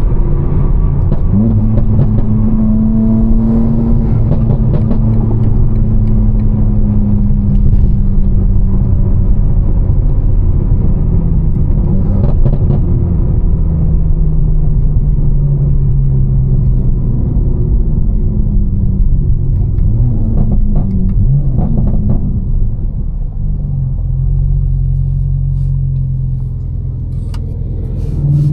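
BMW M4 Competition's tuned, catless twin-turbo straight-six running while driving, a steady low rumble whose pitch rises and falls gently with light throttle, easing off and quieter in the last few seconds.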